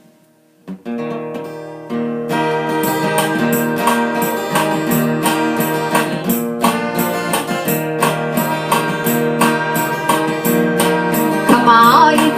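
Acoustic guitar playing the instrumental introduction to a folk song: a single ringing chord about a second in, then steady rhythmic strumming. A bending melody line comes in near the end.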